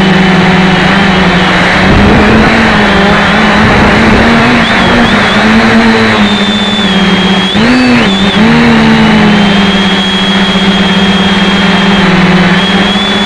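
Electric motors and propellers of a 550 mm quadcopter whining at close range, the pitch wavering as the throttle shifts, with a sharp dip and swoop about eight seconds in. Low rumbling noise joins in between about two and four seconds in.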